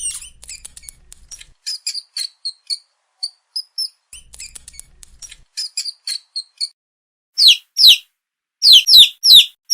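Small birds chirping: rapid short high chirps, then several loud calls that slide down in pitch near the end.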